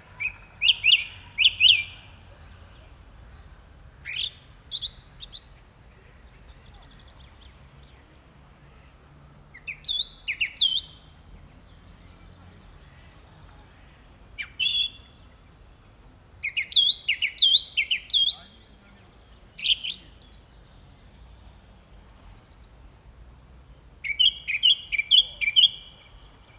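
Song thrush singing: short, clear phrases, each note or motif repeated several times in quick succession, with pauses of a few seconds between phrases.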